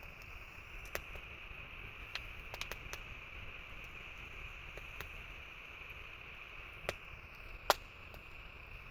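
Wood campfire crackling: scattered sharp pops, several close together about two to three seconds in and the loudest one near the end, over a steady high-pitched drone.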